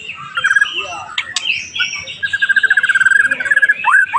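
White-rumped shama (murai batu) singing a varied song. It opens with short whistled notes, then gives a fast trill of rapidly repeated notes lasting about a second and a half, then a run of rising whistled sweeps near the end.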